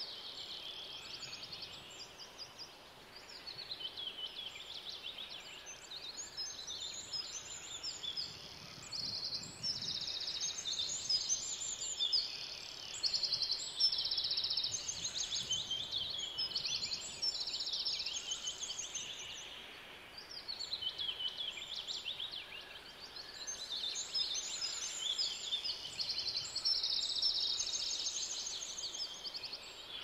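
Several birds singing at once: overlapping high, rapid trills and chirps that follow one another with hardly a pause, over a faint steady outdoor background.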